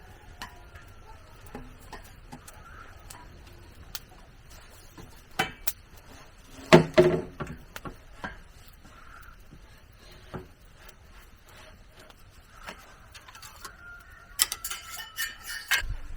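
Scattered knocks and clicks, with a loud cluster of knocks about seven seconds in and another quick run of them near the end.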